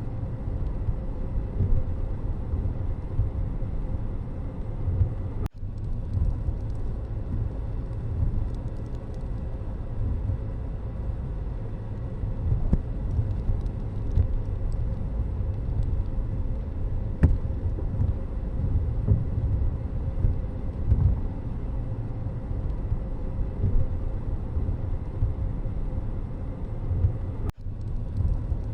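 Steady low rumble of a moving road vehicle, with the sound cutting out briefly twice.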